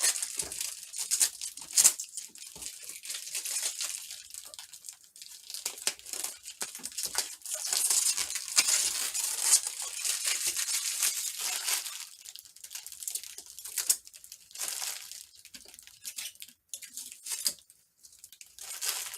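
Sticky plastic protective film being peeled off a robot vacuum and its docking station: an irregular crackling and tearing, densest in the middle.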